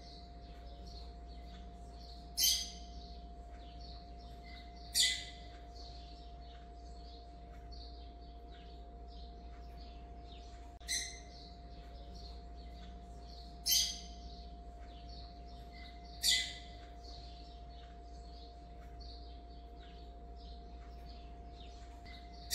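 Birds chirping, with a louder call every few seconds, over a steady low hum.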